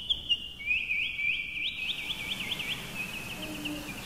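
A bird calling in a fast run of high, sweeping chirps, several a second, growing fainter in the second half.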